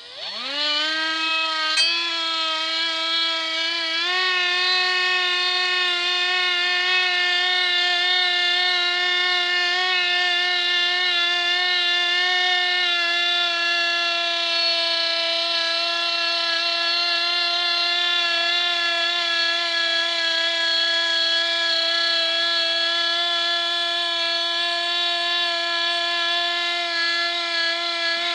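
Parkside cordless multi-grinder (rotary tool) switched on, spinning up within the first second, then running steadily at high speed with a constant whine while buffing a silver teapot with polish.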